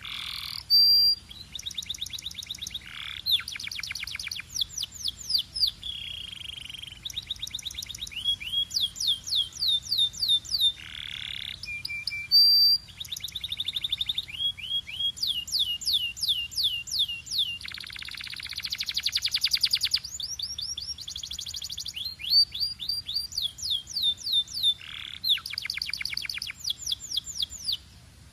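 A canary singing a long, continuous song of rolling trills, each phrase a fast run of repeated notes that switches to a new phrase every second or two. A few short, piercing high notes stand out. The song stops just at the end.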